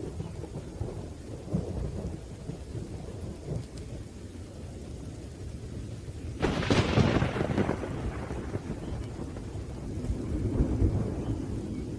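Thunderstorm with steady rain and low rolling thunder. A sharp thunderclap breaks about six and a half seconds in and fades over a second or two, and the thunder rumbles up again near the end.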